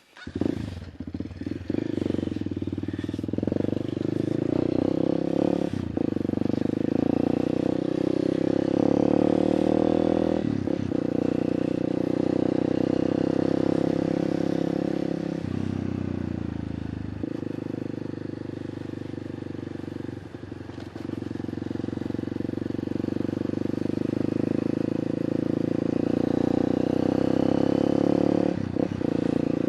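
Honda XR200's single-cylinder four-stroke engine running through an open pipe while being ridden, its note dipping and picking back up several times as the throttle and gears change.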